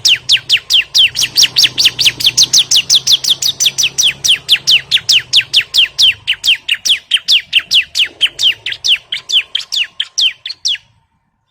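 Bar-winged prinia (ciblek) calling in a fast, even series of short chipping notes, each falling sharply in pitch, about five or six a second, cutting off abruptly near the end.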